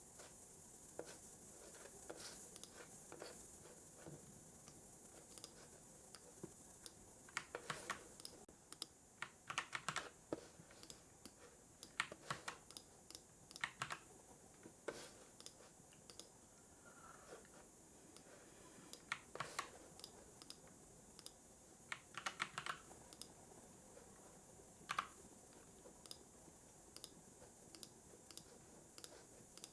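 Computer keyboard typing in short irregular bursts of key clicks, with pauses between them, over faint steady background hiss.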